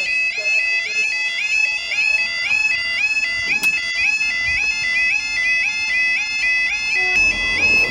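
Bagpipe music: a quick tune over a steady drone. A low rumble comes in near the end.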